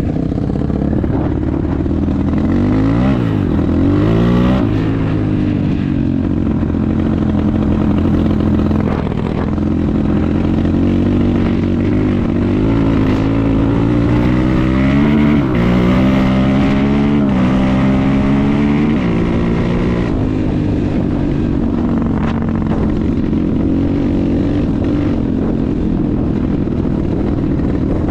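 Enduro motorcycle engine running while riding, its pitch rising and falling repeatedly with throttle and gear changes through the middle part, then holding steadier near the end.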